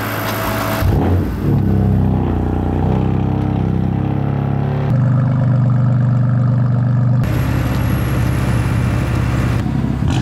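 A motor vehicle engine running: a steady low drone with shifting pitch that changes abruptly a couple of times.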